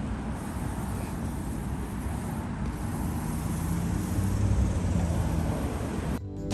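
Steady outdoor background noise with a low rumble, of the kind road traffic or wind makes.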